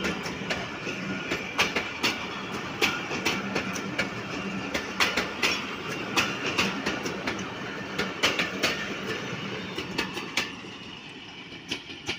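Railway passenger coaches rolling past at speed, their wheels clicking over the rail joints in a steady clickety-clack. The sound drops away near the end as the last coach passes and the train moves off.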